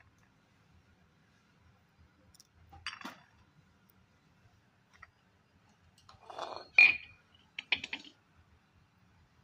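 Metal tools and motor parts clinking and clicking as an AC indoor fan motor is worked on for a bearing change. There are a few scattered clicks, then a short rattle about six seconds in that ends in the loudest, ringing clink, followed by a couple more clicks.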